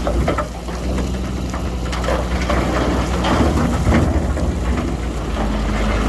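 Heavy diesel earthmoving machine running under load with a deep steady rumble, with scattered clattering and crunching over it.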